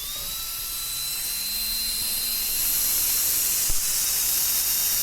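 High-speed dental air-turbine handpiece running: a high whine that climbs as it spins up, then holds steady over a strong hiss of air. The handpiece's water spray is not coming out, which is the fault being shown.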